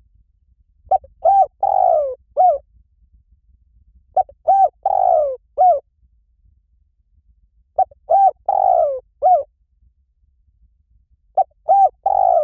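Spotted dove cooing: a phrase of short arched coos with one longer falling coo in the middle, repeated four times about every three and a half seconds.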